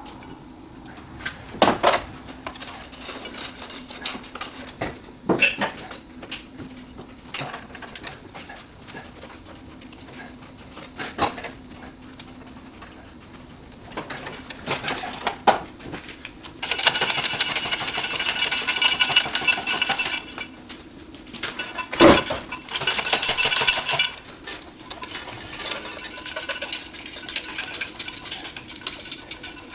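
Tools working on metal: scattered clinks and knocks, with two spells of fast, steady mechanical rattling, one of about three seconds past the middle and a shorter one a couple of seconds later.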